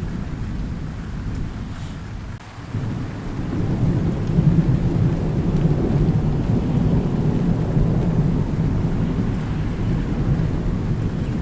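Thunderstorm: steady rain with low, rolling thunder. The rumble dips briefly, then swells about three seconds in and rolls on.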